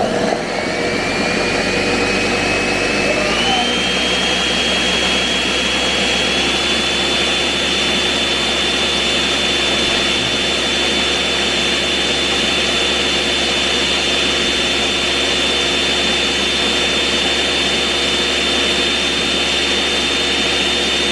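Countertop blender running at full speed, puréeing a jerk marinade of habanero, onion, garlic and ginger. It starts abruptly, and its motor whine climbs in steps over the first few seconds, then holds steady.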